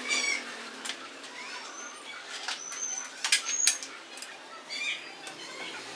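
Pet birds chirping in short repeated calls, some falling in little runs, with a few sharp clicks of metal parts knocked together as the motor and gear case are handled.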